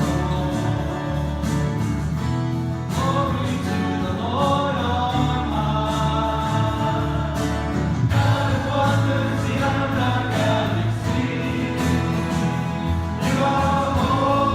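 Worship song sung by a congregation and worship band: many voices singing together over instrumental accompaniment with a steady beat.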